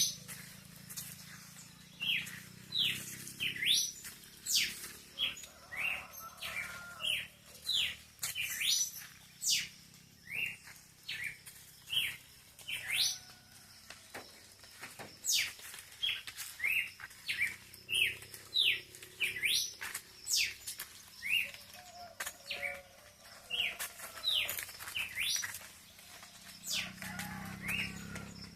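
Birds chirping at dawn: a steady stream of short, sharp chirps, each sweeping quickly upward in pitch, coming one to three a second.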